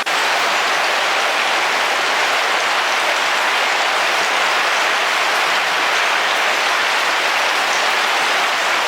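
Heavy rain falling steadily on a car's roof.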